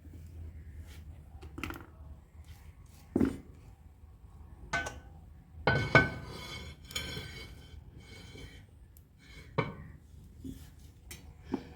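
Metal cooking pots and utensils clanking: a handful of separate knocks and clinks, the loudest about six seconds in with a brief metallic ring.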